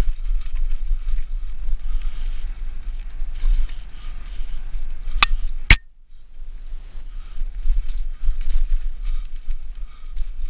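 Mountain bike rolling over a rough dirt trail: tyre and chain rattle with a steady low wind rumble on the microphone. Two sharp clicks about five seconds in, then the noise briefly drops away before picking up again.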